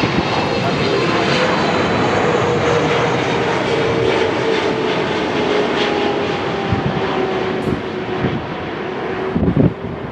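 Jet airliner passing close, a loud steady engine roar with a whine that slowly falls in pitch as it goes by. A brief gust of wind hits the microphone near the end.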